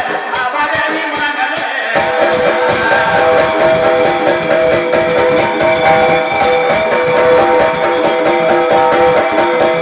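Live Marathi folk music, an instrumental passage without singing: fast rhythmic jingling percussion under sustained melodic notes that come in about two seconds in.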